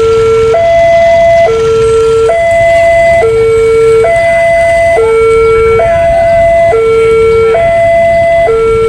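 Level-crossing warning alarm sounding continuously, a two-tone electronic alarm alternating between a lower and a higher tone about once a second. It signals that the gates are closing or closed for an approaching train.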